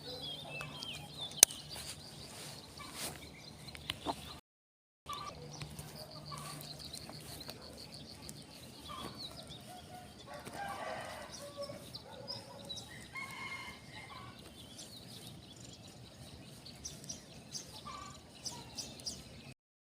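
Chickens faintly clucking, with a rooster crowing about ten seconds in, and a few sharp clicks, the loudest about a second and a half in.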